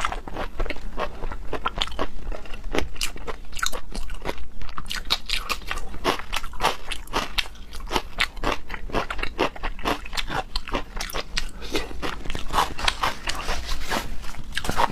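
Close-miked eating: a person biting and chewing food with rapid, irregular crunching and wet clicking sounds.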